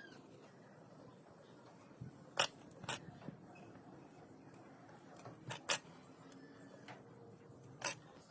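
About five sharp, short clicks and taps, scattered and irregular, of small metal tools and parts being handled during pocket-watch repair, over a faint room background.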